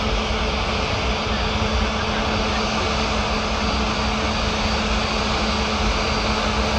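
Jet airliner engines running steadily: an even noise with a low rumble underneath and a few steady tones on top, holding level throughout.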